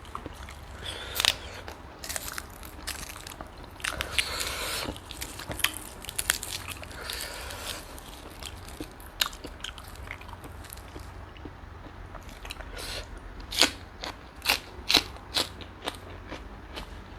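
A person biting and chewing crunchy food close to the microphone, mukbang-style. Sharp crunches come at irregular intervals, with a run of louder bites about three-quarters of the way through.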